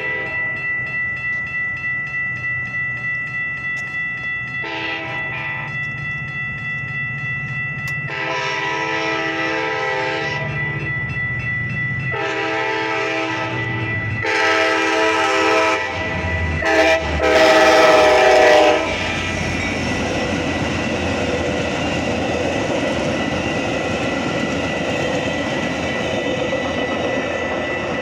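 Grade-crossing warning bells ring steadily while a Metra commuter train's horn sounds a series of blasts, each lasting about one to two and a half seconds, until about 19 seconds in; the last blast is the loudest. The train then runs through the crossing with a steady rumble of wheels on rails, and the crossing bells keep ringing.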